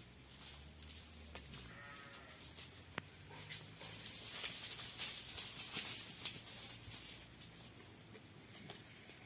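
Farm livestock calling: a low, drawn-out call in the first second and a half, then a shorter, higher call, with scattered clicks and taps around them.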